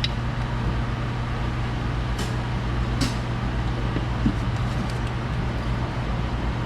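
Steady low machine hum in a repair shop, with a couple of light clicks about two and three seconds in.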